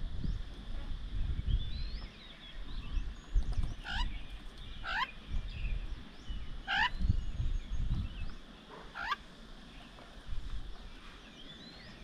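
Birds calling: four loud, short, sharply rising calls spaced a second or two apart, with a few faint high chirps from smaller birds. An uneven low rumble runs underneath.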